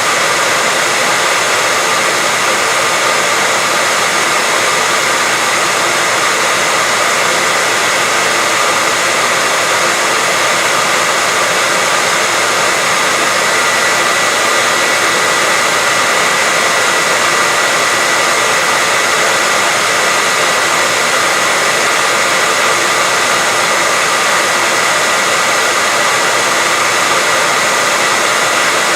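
Continuous white noise: a steady, even hiss that never changes, with a faint high whistle held under it.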